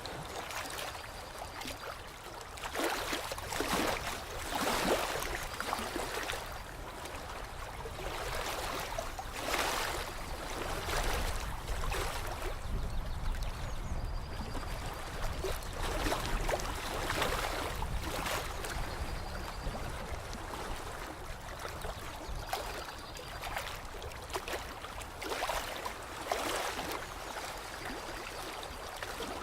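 Lake water lapping and splashing in uneven surges every second or few, over a low rumble. Faint short high tones sound every few seconds.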